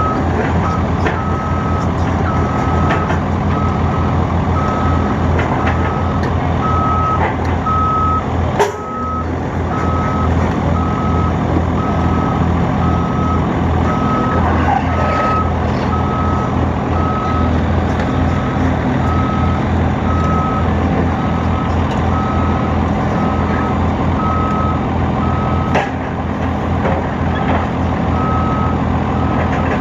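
Heavy machinery's backup alarm beeping at about one beep a second, with pauses, over a diesel engine running steadily. There is a sharp knock about nine seconds in.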